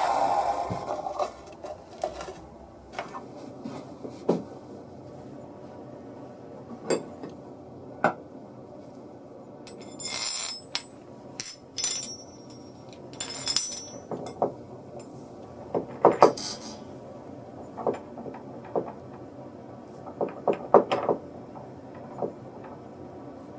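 A scraping noise that stops about a second in, followed by scattered workbench knocks and clicks of wood and tools being handled. Several bright metallic clinks come in the middle of the stretch.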